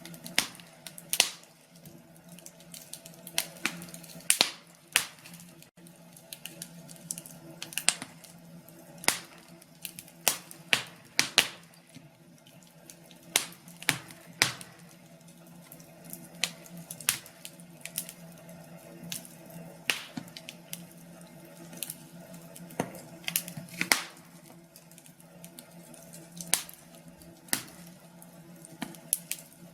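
Wood fire crackling in a fireplace: irregular sharp pops and snaps, several a second at times, over a faint steady low hum.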